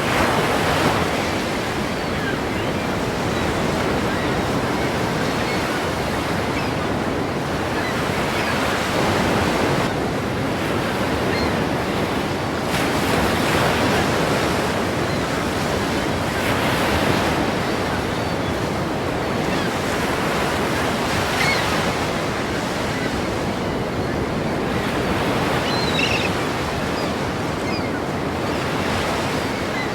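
Ocean waves breaking in a continuous surf rush that swells and falls back every few seconds.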